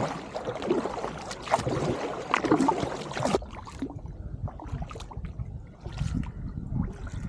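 Kayak paddling on a river: water splashing and trickling off the paddle and lapping against the hull. About three and a half seconds in, the sound abruptly turns duller and quieter.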